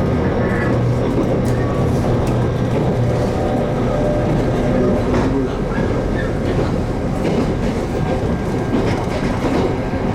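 JR Kyushu 813 series electric train running between stations, heard inside the car: a steady rumble of wheels on rail, with clicks as the wheels pass over rail joints.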